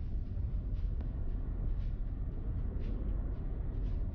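A car driving on snowy city roads: steady low road and engine rumble, with faint short swishes about once a second.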